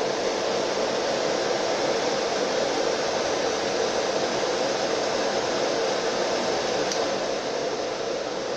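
Two industrial blower fans in a homemade car heater-fan housing running steadily on the bench, giving an even rush of air with no rattle. A faint tick comes about seven seconds in.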